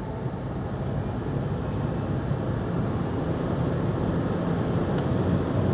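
Cabin noise of a VW e-Up! electric car under full acceleration: tyre and wind noise that grows steadily louder as speed builds, with no engine note. A brief click about five seconds in.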